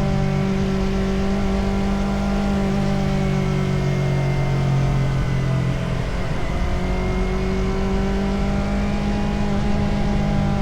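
Motorcycle engine running steadily while riding along the road. Its note dips briefly about six seconds in, then picks up again.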